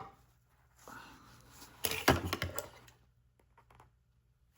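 Handling noise from upholstery pieces being worked by hand: a short burst of rustling with a few sharp knocks and clicks about two seconds in.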